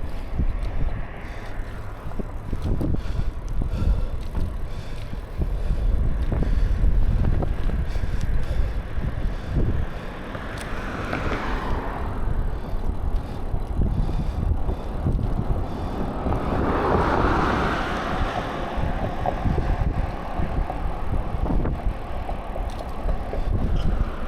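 Wind buffeting the microphone of a rider on a moving bicycle, a constant low rumble. A rush of noise swells and fades twice, about ten seconds in and again a few seconds later.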